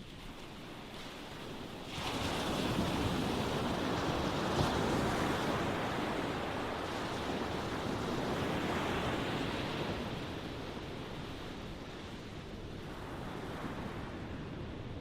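Ocean waves: a wave breaks suddenly about two seconds in, and its wash runs on for several seconds before easing off, with a smaller surge near the end.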